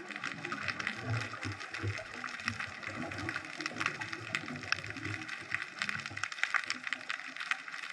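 Underwater sound through a GoPro housing: a steady crackle of fine clicks with irregular low bubbling gurgles, typical of a scuba diver's exhaled bubbles.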